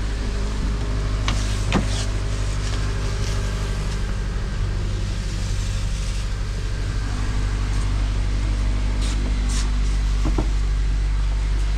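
2017 Honda Accord's 2.4-litre four-cylinder engine idling steadily, with a few light clicks.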